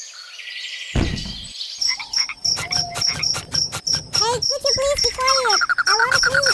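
A low thud about a second in. Then a run of quick clicks, high chirps pulsing a few times a second, and short rising-and-falling croaking calls, like insects and frogs.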